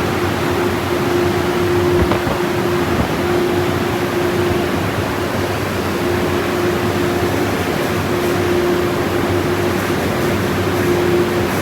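Automatic car wash dryer blowers running: a loud, steady rush of air with a steady hum that drops out now and then.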